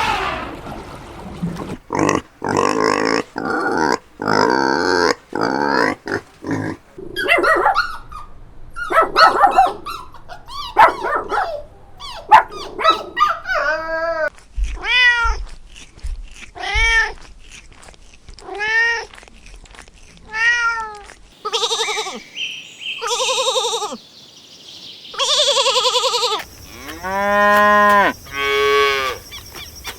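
Farm animals calling in turn: a run of short repeated calls and cries, then a series of short calls that rise and fall in pitch, about one a second, and a few longer calls near the end.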